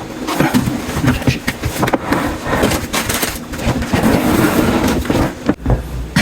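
Handling noise: rustling and scraping with irregular knocks and clicks, as a dishwasher hose is fed through the cabinet toward the sink disposal. A low rumble begins near the end.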